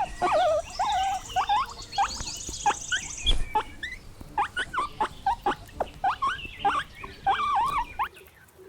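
Guinea pig squeaking: a quick series of short, high squeaks with wavering pitch, several a second, stopping just before the end.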